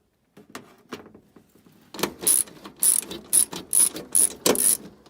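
Hand ratcheting screwdriver being worked: its pawl clicks through a few faint strokes, then about six sharp ratcheting strokes, roughly two a second, from about two seconds in.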